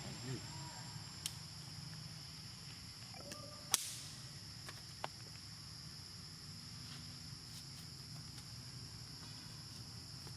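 Steady high-pitched insect chorus with a few sharp cracks or snaps; the loudest comes about a third of the way in.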